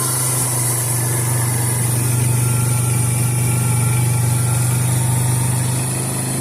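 Suzuki Eiger 400 ATV's single-cylinder four-stroke engine running at a steady, even pitch while riding along a flooded trail.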